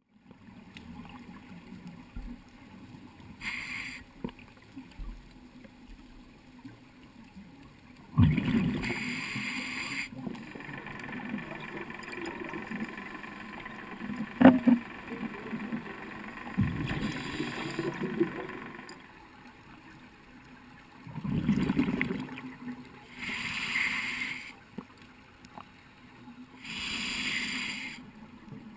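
Scuba diver breathing through a regulator, heard through an underwater camera housing: a hiss on each inhale and a bubbling rush on each exhale, about every few seconds, over a low steady hum.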